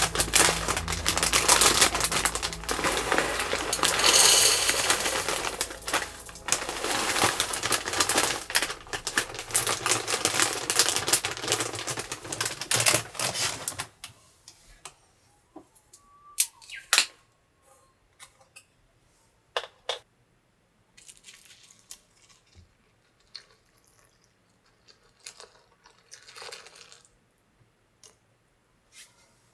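Dense, continuous crackling over background music for about the first half; both stop suddenly, leaving a few scattered clicks and knocks.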